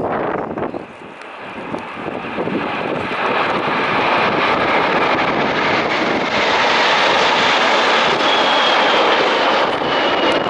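Jet aircraft flypast of a Boeing 747 airliner with the Red Arrows' BAE Hawk T1 jets in formation. The engine noise swells over the first few seconds to a loud, steady roar. Near the end a thin high whine falls slightly in pitch as the aircraft pass.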